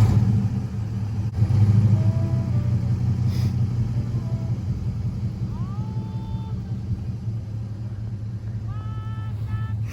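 Engine of a 1961 Chevy Apache pickup running with a steady low rumble, swelling briefly about a second and a half in. A few short squeaky tones sound over it in the second half.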